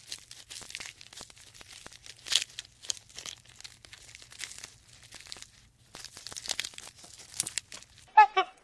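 Irregular crackling and rustling clicks, like dry material being crunched or torn. Near the end, a run of short, pitched animal calls begins.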